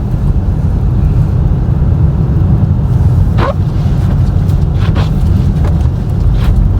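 Steady in-cabin driving noise of a car on snowy roads: a loud, continuous low rumble, with a few short knocks about halfway through and near the end.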